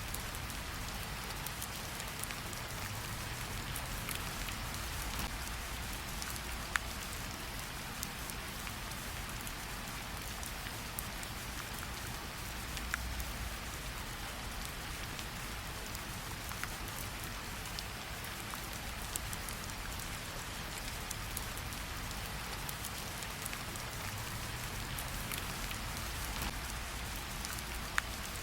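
Steady rainfall with a constant patter, broken by a few sharper single drop strikes.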